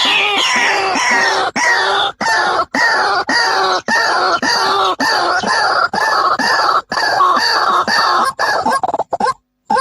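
White-breasted waterhen (ruak-ruak) calling: a fast series of repeated arched notes, about three a second, the first few falling in pitch. The sound cuts out briefly near the end.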